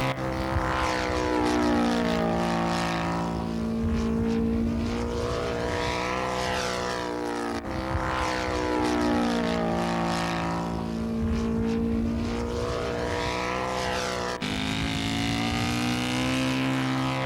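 Propeller-driven scale model airplane engine running in flight, its pitch sliding up and down as it passes. The sound breaks off abruptly twice, about a third and about five-sixths of the way through.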